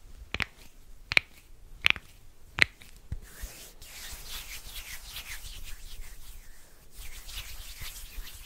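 Four finger snaps, one about every 0.7 s, then hands rubbing together close to the microphone from about three seconds in, pausing briefly near the end.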